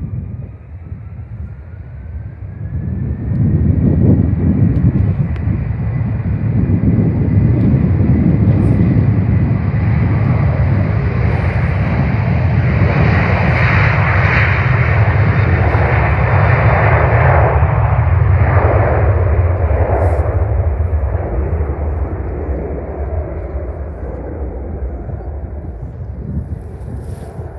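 Jet airliner passing close, its engines building to a loud rumble about three seconds in, holding for well over ten seconds, then fading away, with a steady high whine throughout.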